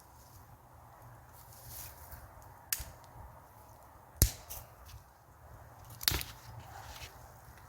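Three sharp knocks or cracks, a few seconds apart and growing louder, over a faint steady background hiss.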